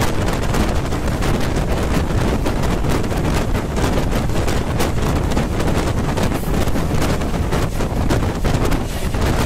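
Express train running at about 130 km/h, heard from on board: wind buffeting the microphone over a steady rumble, with fast, uneven clicking and clatter of the wheels on the rails.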